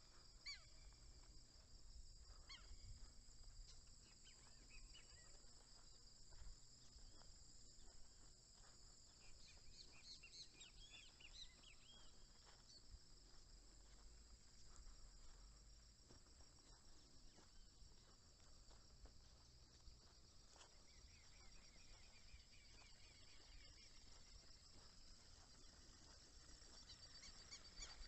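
Faint, steady high-pitched chorus of crickets and other insects at dawn, with scattered bird chirps about ten seconds in and again past twenty seconds; geese begin honking right at the end.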